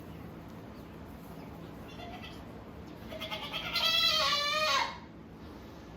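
Doe goat in labor bleating: a short faint call about two seconds in, then one loud, wavering bleat lasting nearly two seconds.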